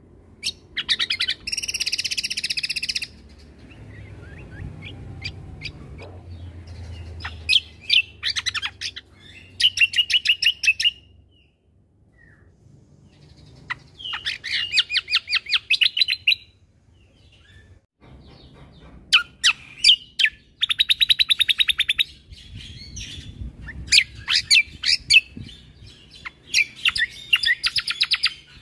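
Cucak kombo songbird singing in bouts of fast, rapidly repeated chattering notes, each bout lasting a second or two, with short pauses between them.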